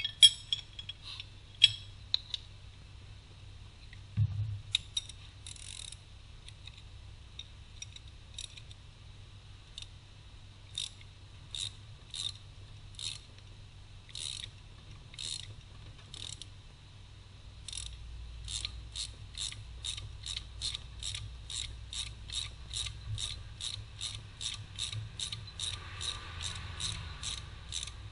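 Hand ratchet wrench clicking: scattered clicks at first, then a steady run of about three clicks a second from around two-thirds of the way in.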